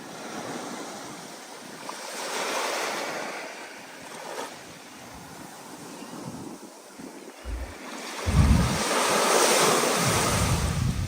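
Storm surf: waves breaking and washing in swells, with wind gusting across the microphone. The loudest wave crashes about eight seconds in, with low rumbles from wind buffeting.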